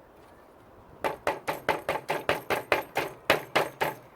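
Quick, light hammer taps on a wooden beehive frame, knocking the top bar down onto the side pieces so that it sits tight in its grooves. About a second in, a fast, even run of sharp knocks starts, about five a second, and lasts some three seconds.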